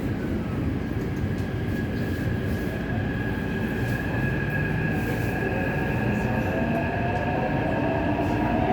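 Taipei Metro C381 train running, heard from inside the car: steady rumble of the car with a high steady whine from the traction drive, and a lower tone that climbs in pitch over the last several seconds as the train gathers speed.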